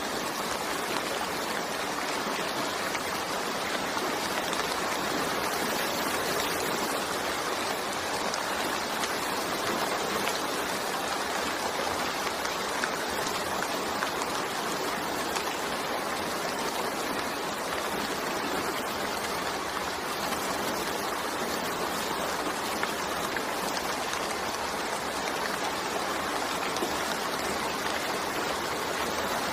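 Steady rain falling, a dense even hiss that holds at the same level throughout.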